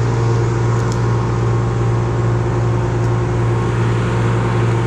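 An engine running steadily at a constant speed, a low, even drone that does not change in pitch.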